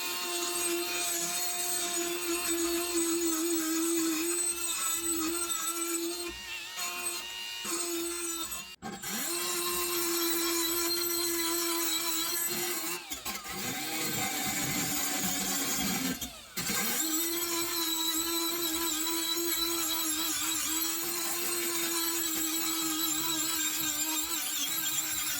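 A power tool running with a steady whine. It drops out for a moment about nine seconds in, wavers and sags in pitch for a few seconds as if under load, cuts out briefly again, then runs steadily on.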